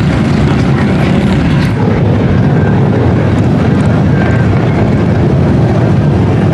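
Loud, steady engine noise from off-road mud trucks running, a dense low drone without a clear rev or break.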